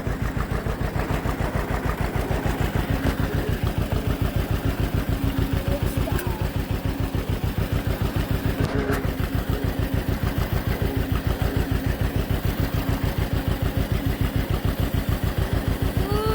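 Tractor engine running steadily at low speed, an even putt-putt of about eight pulses a second, while the tractor is reversed.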